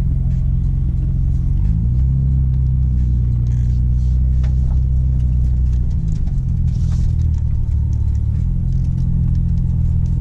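Car engine and low road rumble heard from inside the cabin while driving; the engine note rises a little under two seconds in, drops at about six seconds and rises again after about eight seconds.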